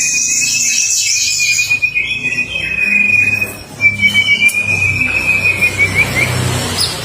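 Male white-rumped shama singing a courtship song: two long, slightly wavering whistled notes, the second breaking into a few short notes near the end.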